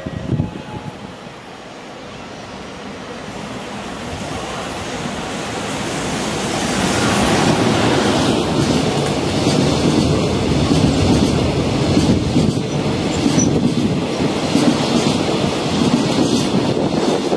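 Freight train approaching, getting steadily louder over the first several seconds, then passing close by with a heavy steady rumble and rapid clacking of its wheels over the rail joints.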